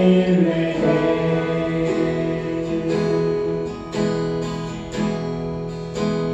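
Worship band music: acoustic guitar strumming under held chords that change about once a second, with a sung line ending just at the start.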